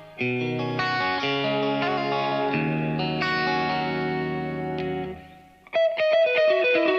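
Electric guitar played through effects: held, ringing chords that die away about five seconds in, then a quick run of plucked notes starts near the end.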